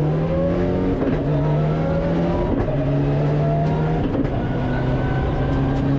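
Mitsubishi Lancer Evo IX rally car's turbocharged four-cylinder engine, heard from inside the cockpit, pulling hard under full acceleration. It drops in pitch at three quick upshifts, about one, two and a half, and four seconds in.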